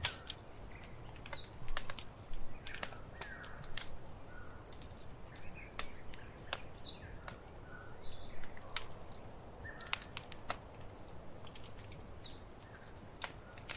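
Wood fire crackling: irregular sharp pops and snaps over a low steady rumble, with short bird chirps scattered through.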